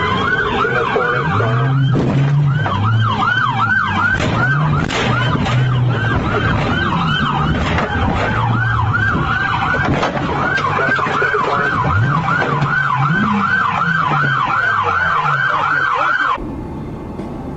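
Police car siren in fast yelp mode, rising and falling about three to four times a second, with a vehicle engine revving underneath. It cuts off abruptly near the end.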